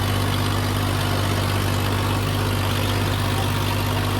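Diesel tractor engine running steadily at an even pitch, a deep constant hum with no change in revs.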